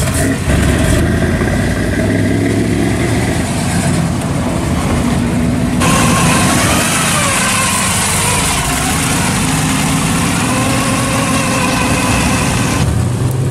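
Classic American car engines running at low speed as cars drive slowly past, with a steady rumble. The sound cuts abruptly from one car to the next a few times.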